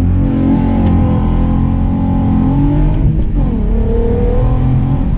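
Mk4 Golf R32's 3.2-litre VR6 engine breathing through a Milltek aftermarket exhaust, pulling under load. The note breaks briefly and drops in pitch about three seconds in, then rises again.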